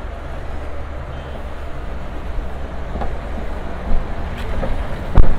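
Steady low rumble of a vehicle engine or nearby traffic, with one sharp thump about five seconds in.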